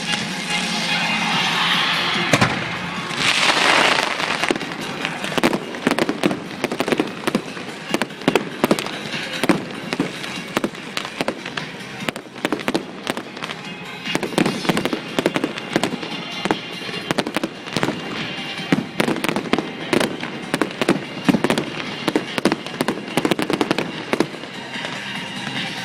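Fireworks going off in a long, rapid run of sharp bangs and crackles, many a second, after a hissing first few seconds.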